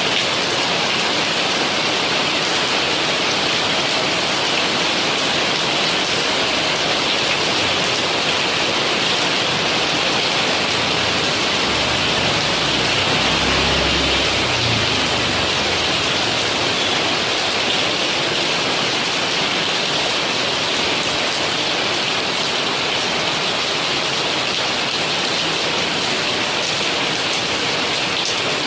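Steady rain, an even hiss, with a low rumble swelling briefly about halfway through.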